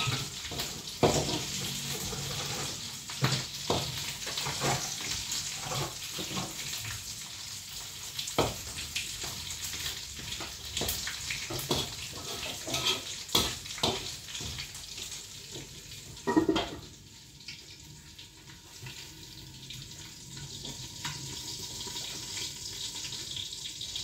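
Chicken frying in hot oil: a steady sizzling hiss full of crackles and pops, with knocks of a metal utensil against the pan. About two-thirds of the way in a louder knock comes and the sizzle drops to a quieter level.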